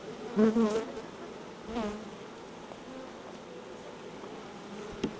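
Honey bee colony buzzing steadily as a dense, continuous hum. Twice in the first two seconds a louder, wavering buzz swells up.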